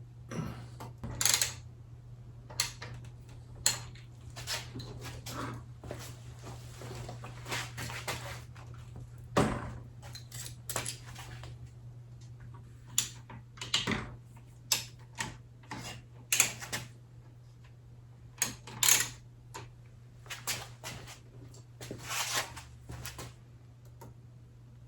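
Metal tools and fork parts clinking, clicking and knocking irregularly during hand work on motorcycle front forks, over a steady low hum.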